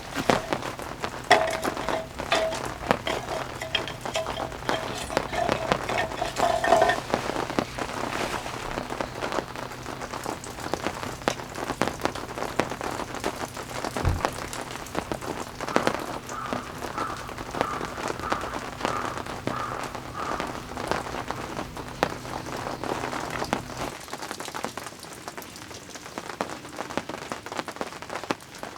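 Rain falling, with many separate drops striking a surface in a dense, irregular patter. Under it runs a low steady hum that stops near the end.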